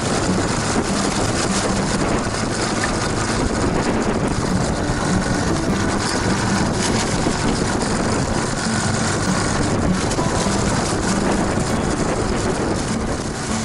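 Yamaha TW225 motorcycle's single-cylinder engine running steadily under a loud, even rushing noise.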